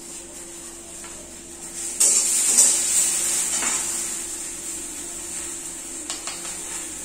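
Okra lightly frying in oil in a kadai: a steady sizzle that swells suddenly about two seconds in, with a few clinks of metal on the pan, then slowly eases off.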